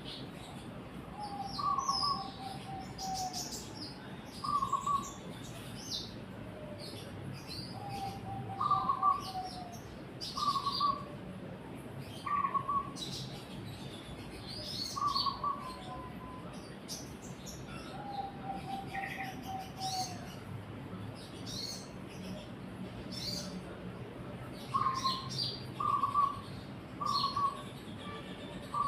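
Several birds singing and calling in the daytime: short, lower-pitched calls repeated every second or two, a few longer falling trills, and many quick high chirps.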